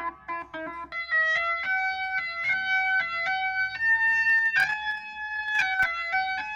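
Electric guitar playing a melodic line of picked single notes, each ringing briefly before the next. It is heard through an HBK TSX 500-series tape saturation unit, which adds tape-style saturation to the guitar.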